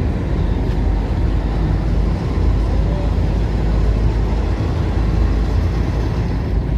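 River ferry's engine running steadily under way, a continuous low drone.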